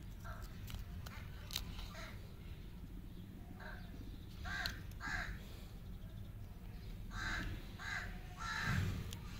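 A bird cawing in two runs of about three short caws, the first run near the middle and the second near the end. Faint crinkles and clicks of candy wrappers being peeled off lollipops lie underneath.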